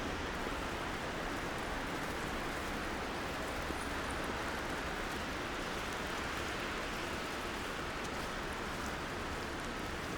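Steady downtown street ambience in snowy weather: an even hiss with the low hum of distant traffic, and no single sound standing out.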